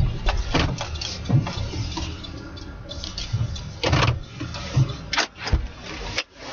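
A vehicle's low rumble with scattered knocks and clicks over it, the loudest about four seconds in and a few more near the end.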